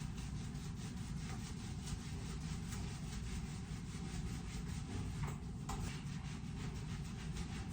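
Paint roller rubbing and rolling paint onto a surface in repeated strokes, over a steady low hum.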